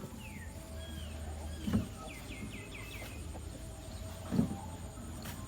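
Bird chirping: a few short falling chirps, then a quick run of about five in a row, with two dull thumps about two and four seconds in.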